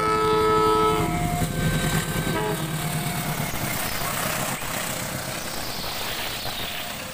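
CC 201 diesel-electric locomotive sounding its multi-tone air horn as it passes close by; the horn chord cuts off about a second in. The passenger coaches then run past on the rails, the rumble slowly fading.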